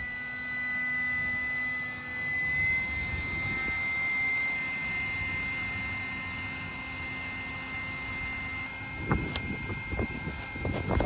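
Small electric air pump running steadily while inflating an air mattress, a high whine that cuts off abruptly near the end, followed by a few knocks and rustles.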